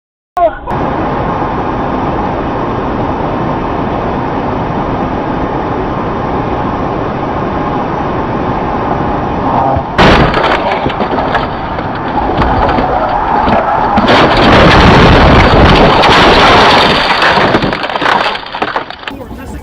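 Dashcam audio of a vehicle on the road: steady road and engine noise. About ten seconds in, a sudden loud bang opens a louder stretch of cracking and crunching, typical of a car crash with metal and glass breaking.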